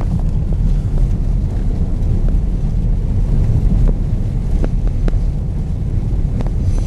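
Steady low rumble of a vehicle driving through a blizzard, mixed with wind noise, with a few faint ticks.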